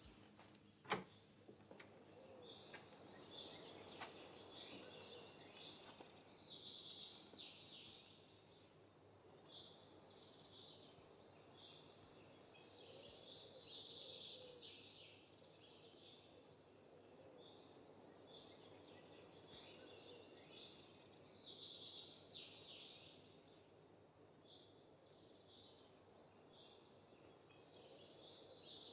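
Faint birdsong: small birds chirping and twittering in short runs that come and go every few seconds. A single sharp click about a second in.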